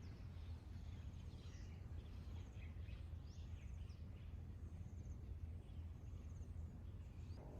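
Quiet outdoor ambience: a steady low rumble with faint, scattered bird chirps and short trills.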